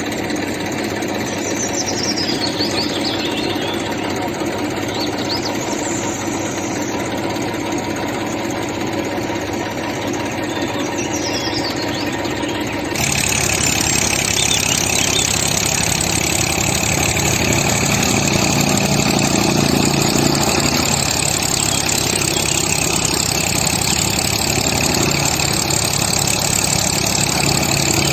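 Tractor engine running steadily. About halfway through the sound changes abruptly and becomes louder.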